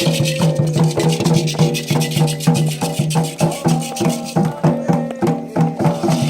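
Candomblé ritual music: percussion and rattles playing a fast, steady rhythm of about four or five strokes a second over sustained tones.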